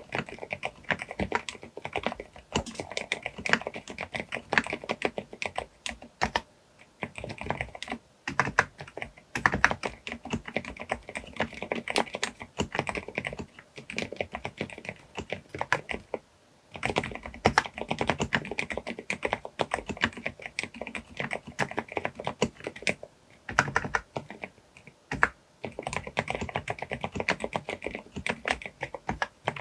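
Fast, continuous typing on a Groovestone GV10M-8K mechanical keyboard with 38 g silent (low-noise) brown switches, with a few brief pauses between runs of keystrokes.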